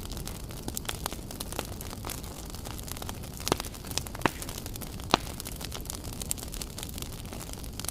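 Wood fire crackling: a steady low rumble of the burning logs with irregular sharp pops and snaps, a few louder ones in the middle.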